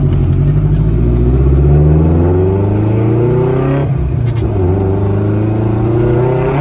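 Nissan S13 Silvia's forged SR20DET turbo four-cylinder accelerating hard: the engine note rises steadily, breaks briefly for a gear change about four seconds in, then rises again.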